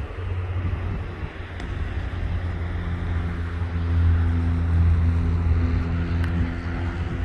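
A motor vehicle's engine running, heard as a low rumble with wind buffeting the microphone; a steady engine hum comes in about three seconds in and grows louder.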